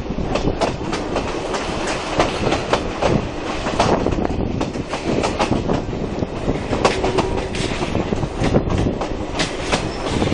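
Coaches of a steam-hauled heritage train running along the line, heard close from a carriage window, with the wheels clattering over rail joints in a stream of irregular clicks over steady running noise.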